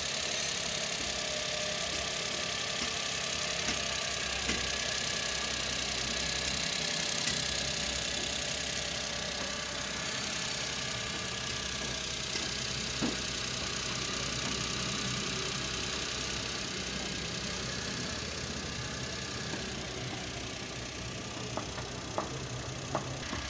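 Suzuki Every's 660cc turbocharged three-cylinder engine idling steadily after a fresh tune-up. A few light clicks come near the end.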